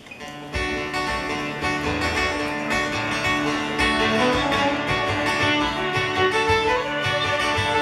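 Acoustic band playing the instrumental intro of a folk-country song: strummed guitars with a fiddle holding the melody line. The music starts about half a second in.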